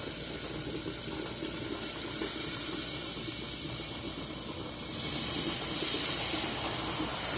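Blended peanut-and-milk mixture poured a little at a time into a pan of hot caramelized sugar, hissing steadily; the hiss grows louder about five seconds in.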